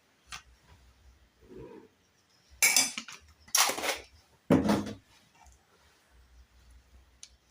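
A metal spoon scraping and knocking against a pot and a margarine tub, three short clattering scrapes in a row about a second apart, with light handling sounds in between.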